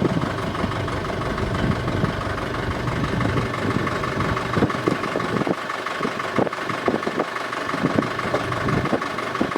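Sailboat's inboard engine running steadily, a constant hum with some irregular low thumps over it.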